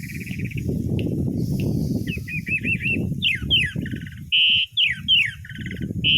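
Orange-headed thrush (anis merah) singing a varied song: quick looping notes, sharp downward-slurred whistles and buzzy trills, denser in the second half, over a low background rumble.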